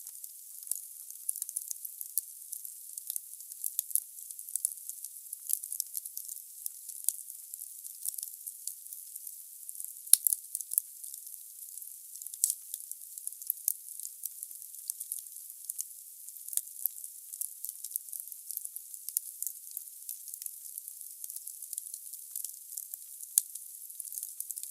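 Wood fire burning in a fireplace: a steady hiss with frequent sharp crackles and pops from the burning logs, the loudest pop about ten seconds in.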